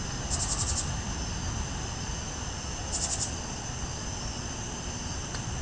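A steady chorus of crickets and other night insects, with two short bursts of rapid pulsed chirping about half a second in and again around three seconds, over a low steady background noise.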